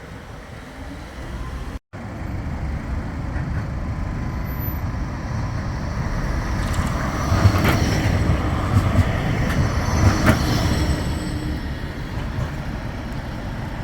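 Bombardier Flexity 2 light-rail tram passing by. The rumble swells to a peak about halfway through, with a few sharp knocks, then eases off.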